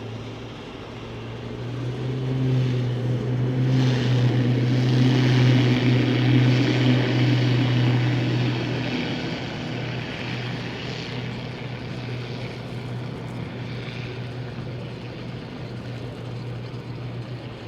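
Cessna Grand Caravan EX floatplane's Pratt & Whitney PT6A turboprop engine and propeller at takeoff power, a low steady drone with a whining hiss above it. It swells over the first few seconds, is loudest a few seconds in, then slowly fades.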